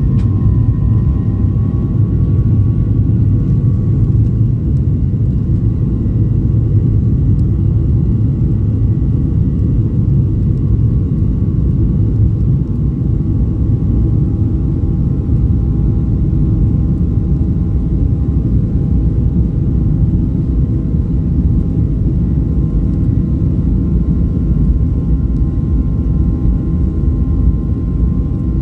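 Jet airliner on its takeoff, heard from inside the cabin: a loud, steady rumble of engines and runway with a whine of several tones above it.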